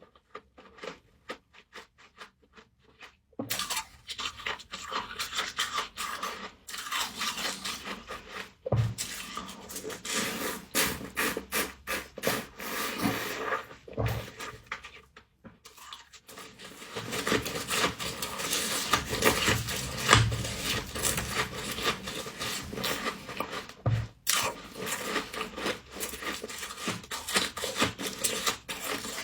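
Humidifier frost being scraped and crunched: a dense, crackly scraping-and-crunching texture that starts a few seconds in and runs on with brief pauses.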